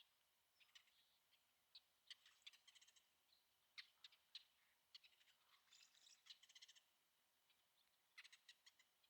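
Small birds chirping faintly, with short separate calls and a few quick chattering runs of ticks, about two, six and eight seconds in.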